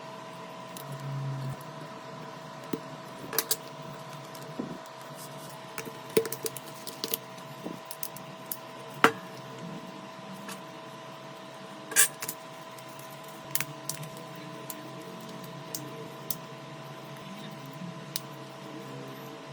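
Scattered sharp clicks and small taps of tools and parts being handled on a smartphone under repair, over a steady faint high hum.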